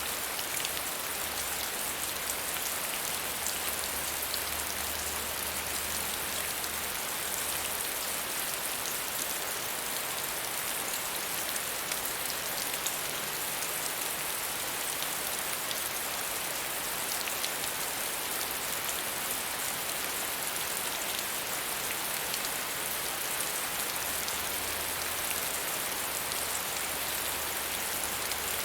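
Steady, medium rain falling, a dense even hiss of drops with fine patter.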